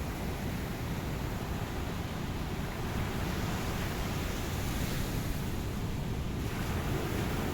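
Ocean surf washing onto a beach, a steady rushing noise with a deep low rumble. A wave's hiss swells through the middle and falls away about six and a half seconds in.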